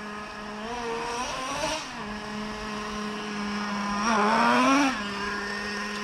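Traxxas 3.3 two-stroke nitro engine idling during its break-in, with a short throttle blip about a second and a half in and a longer rise in revs about four seconds in that drops back to idle.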